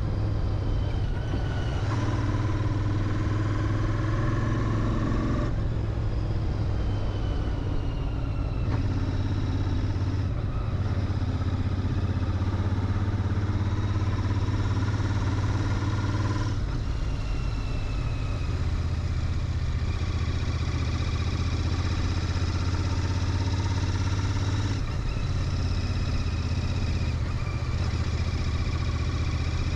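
Royal Enfield Interceptor 650's parallel-twin engine running through its stock mufflers while riding, the engine note changing in steps every few seconds as the revs shift.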